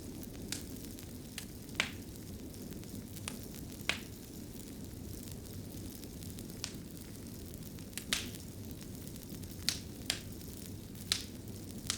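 Wood fire burning in a fireplace: a steady low rumble of flames with irregular sharp crackles and pops every second or so.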